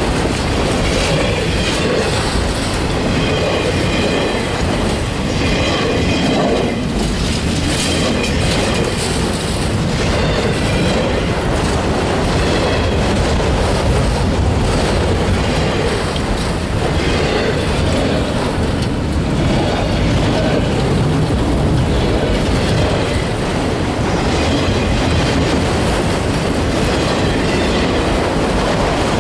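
Train cars rolling past on the rails with a continuous, steady wheel-on-rail noise and clickety-clack, and a faint high wheel squeal coming and going.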